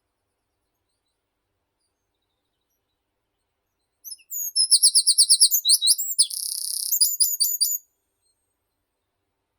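A small songbird sings one song phrase about four seconds in, lasting about four seconds: a fast run of repeated high notes, a short buzzy trill, then a few quick notes at the end.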